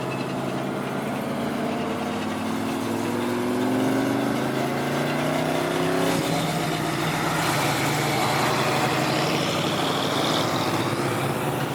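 Car engines idling, with one revving up and pulling away, its pitch climbing over the first several seconds. A louder, rougher engine rush follows from about seven seconds in.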